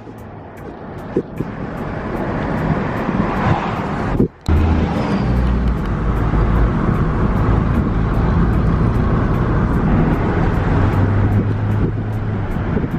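Road and engine noise of a moving car, heard from inside the vehicle as a steady rumble and hiss, with a brief gap about four seconds in.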